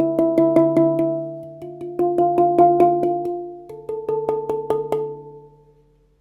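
First homemade steel handpan played by hand: quick repeated strikes, about five a second, with the ringing notes overlapping and moving to new notes twice, then fading out near the end.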